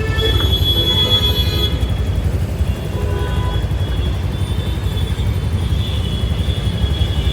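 Wind buffeting the microphone and road and traffic noise while riding an electric scooter, with a high, steady tone with overtones that stops about a second and a half in.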